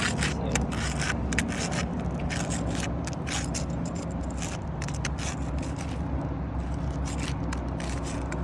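Irregular scraping and crackling as a tool is worked under a laminated asphalt shingle to break its sealant strip, over a steady low rumble.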